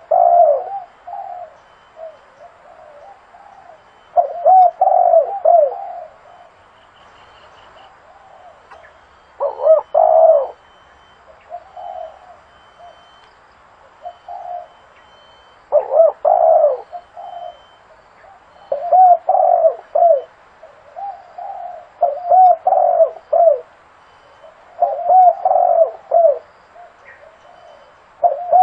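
Spotted dove cooing, a repeated phrase of several low, quick coos roughly every three seconds, with shorter single coos between the phrases.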